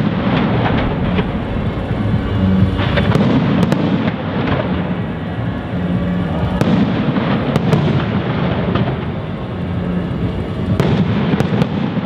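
Fireworks display: aerial shells bursting overhead, with sharp bangs every second or few over a continuous rumble of bursts, several in quick succession near the end.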